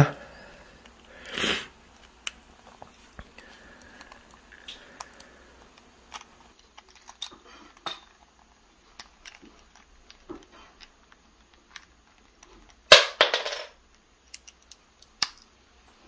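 Amazon parrot's beak clicking and scraping on a plastic Lego brick as it takes and chews the brick, in scattered sharp clicks with a louder clatter near the end.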